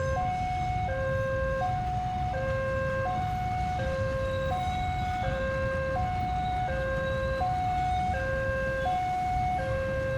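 Railway level-crossing warning alarm sounding its electronic hi-lo two-tone, the two pitches alternating about every 0.7 seconds, over a steady low rumble.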